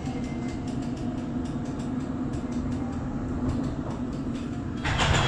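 London Underground District Line train running, heard from inside the carriage: a steady rumble with a low hum and faint regular ticks. About five seconds in, a sudden louder hissing rush sets in.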